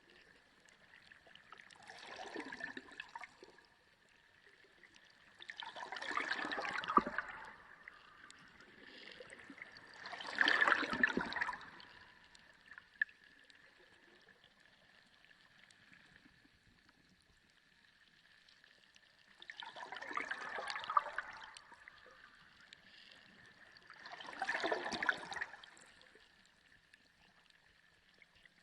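Water sloshing and gurgling in surges a second or two long, about four seconds apart, with a quieter lull of several seconds midway. A faint steady high tone runs beneath.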